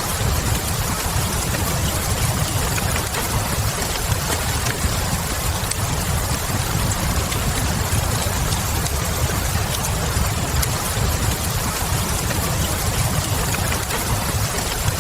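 Steady rain hiss over a low, even rumble, with scattered faint crackles from a wood fire in a fireplace.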